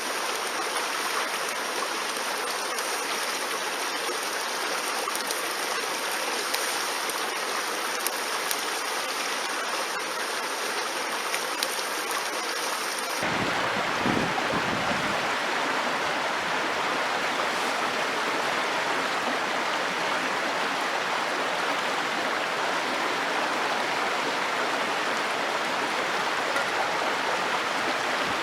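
Mountain stream rushing steadily. About halfway through the sound abruptly becomes fuller and lower, with a brief low rumble just after the change.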